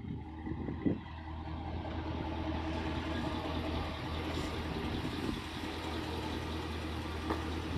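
2008 GMC Sierra 2500 pickup's engine idling steadily, with a brief thump a little under a second in.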